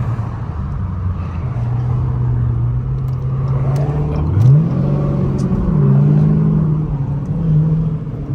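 A V8 muscle car engine running at a steady low note, then revving up sharply about four seconds in and holding higher revs that rise and fall.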